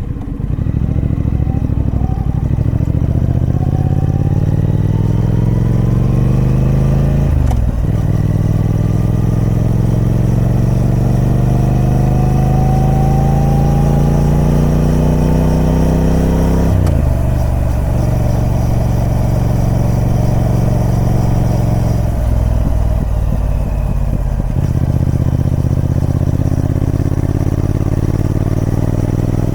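Triumph Speed Twin 1200's parallel-twin engine on its stock exhaust, pulling hard: the revs climb steadily and fall away at an upshift about a quarter of the way in, climb again and fall at another shift just past halfway, then hold fairly steady with a couple of brief dips near the end.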